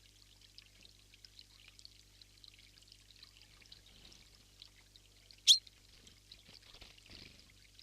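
Steady rush of running water, like a small stream, with one short, sharp bird call about five and a half seconds in.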